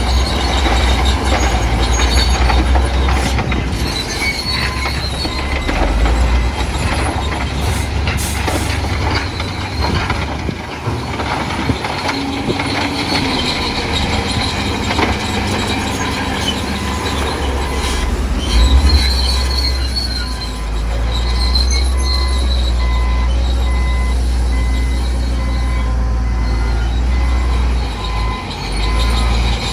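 Bulldozer at work: a steady low diesel rumble under high metallic squealing from its steel crawler tracks.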